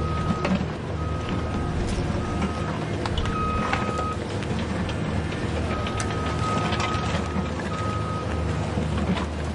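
Remote-control truck with a steady low engine drone and a high beeping tone that cuts in and out at uneven intervals, like a reversing alarm.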